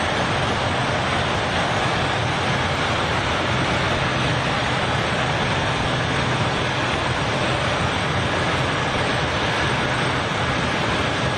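A steady, unchanging engine roar with a low hum underneath.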